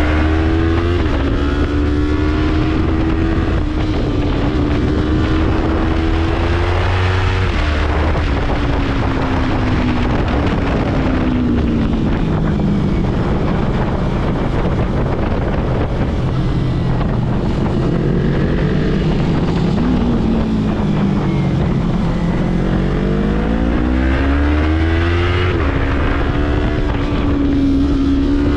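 Yamaha YZF-R3 parallel-twin engine under hard riding, revving up through the gears with sudden drops in pitch at the shifts, falling away on the overrun in the middle and climbing again near the end, over wind rush.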